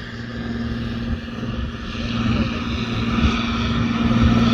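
An engine running with a steady hum that grows steadily louder, as if the vehicle is drawing closer or working harder.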